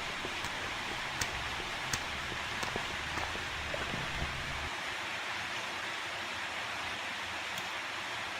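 Steady hiss with a handful of faint, scattered clicks and smacks from eating, over a low rumble that stops about halfway through.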